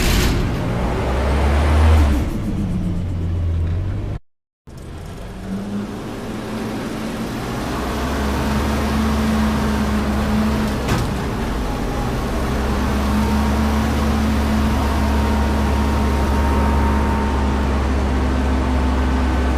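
Front-load garbage truck's diesel engine running with a steady low drone, cut off briefly about four seconds in, then building slowly and holding steady.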